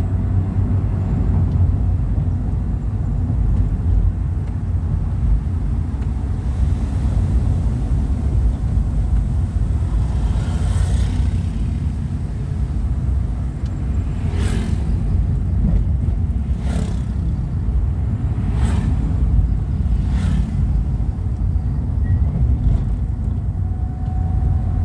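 Steady low rumble of a road vehicle in motion, with several brief swishes in the second half.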